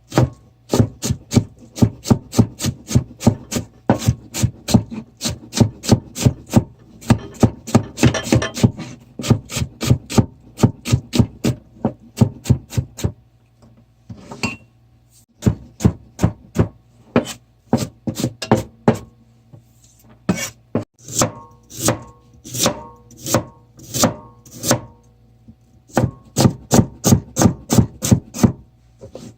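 Kitchen knife chopping vegetables on a wooden cutting board: quick, even strokes at about three a second, in runs broken by short pauses.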